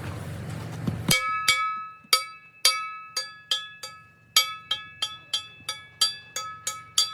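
Repeated hammer blows on steel, each strike ringing with a clear metallic tone, about three a second and slightly uneven, starting about a second in.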